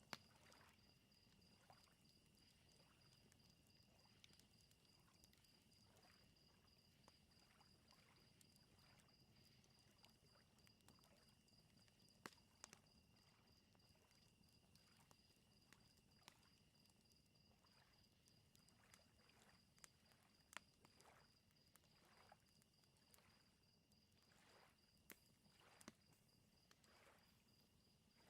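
Faint crickets chirping in a steady trill, with scattered sharp pops from a crackling wood fire and soft lake waves lapping underneath.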